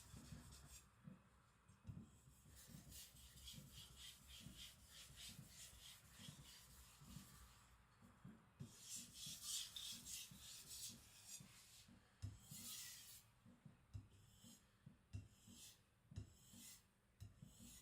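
AEB-L steel gyuto blade being stroked on a whetstone: a faint series of short rasping strokes, a few a second, with a louder run of strokes about halfway through and sparser strokes near the end.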